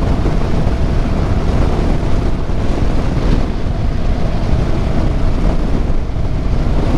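Wind buffeting the rider's microphone over a motorcycle engine running steadily while riding.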